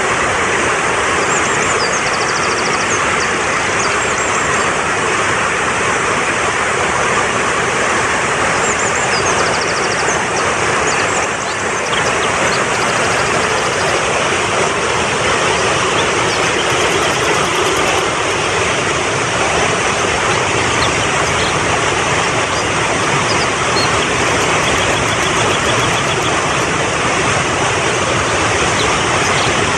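Fast-flowing mountain stream rushing steadily over rocks, with faint high bird chirps and short trills now and then.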